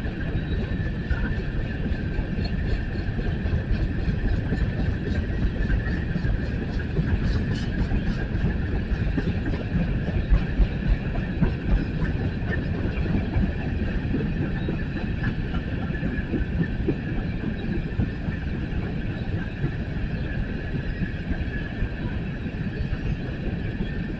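BNSF coal train rolling past: a steady rumble of the cars' wheels on the rails, with a steady high whine running through it.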